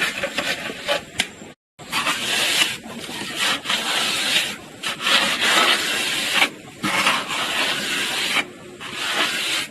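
Repeated scraping in strokes of one to two seconds each, with short breaks between them.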